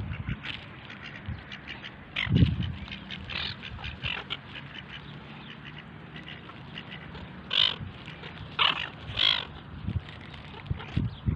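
A flock of Pacific black ducks and seagulls feeding, with many small clicks and pecks and three short loud calls about two-thirds of the way through.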